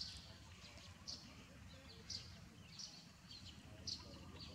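A small bird chirping, short high chirps repeating about once a second, faint over a low background rumble.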